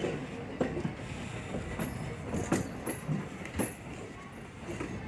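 Passenger railcar rolling along the track: its wheels give irregular clacks over the rail joints on a steady rumble, with brief high squeaks.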